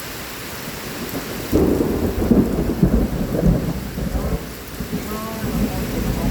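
Steady heavy rain, then a sudden loud rumble of thunder about a second and a half in, rolling with several peaks for a couple of seconds before easing off.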